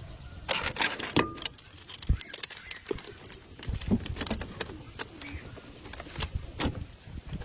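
Metal parts and hand tools clinking and knocking irregularly during engine repair work, with a brief metallic ring about a second in.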